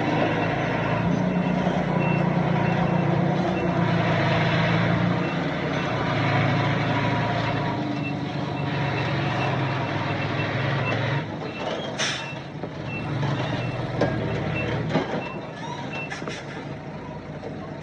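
Reversing alarm on heavy diesel machinery beeping steadily, about one and a half beeps a second, over a loud diesel engine that eases off near the end. A short sharp hiss about twelve seconds in, and a couple of knocks shortly after.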